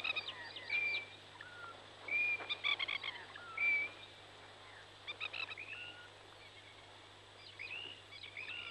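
Birds calling in the bush: short clear whistles and quick chattering chirps, coming in clusters every second or so with a short lull in the middle.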